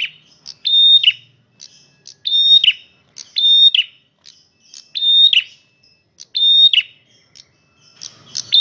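Male prenjak merah calling loudly and persistently: about six sharp calls spaced a second or so apart, each a steady high note that drops off sharply at the end.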